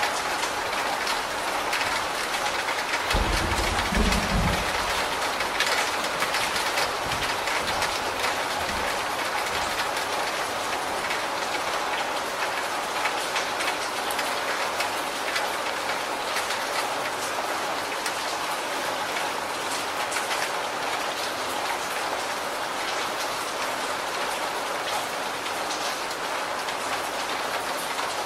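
Steady heavy rain running off the edge of a corrugated roof in streams, an even splashing hiss. A brief low rumble about three seconds in.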